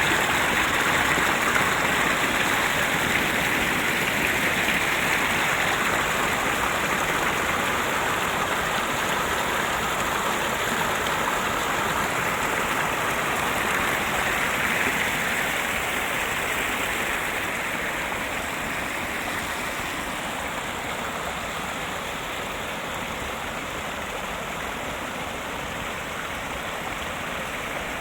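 Steady rushing of running water, slowly fading over the second half.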